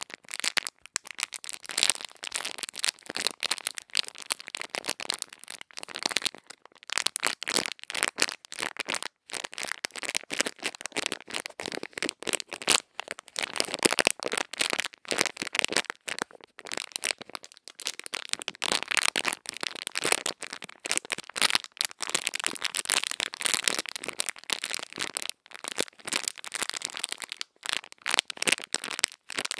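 ASMR ear-cleaning sounds: close, crisp crackling and scratching in dense, uneven runs of small clicks, broken by brief pauses.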